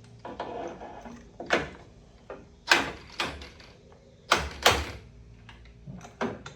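A series of sharp knocks and clunks, about five, from tools and parts being handled during work on a car; the loudest come about midway, including two close together.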